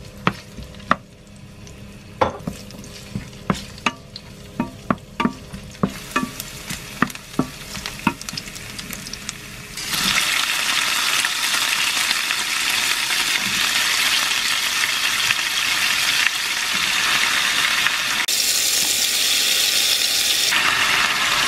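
Sharp knocks and clinks of kitchen utensils for about ten seconds, then a sudden loud sizzle as sliced eggplant meets hot oil in a frying pan, frying steadily from then on.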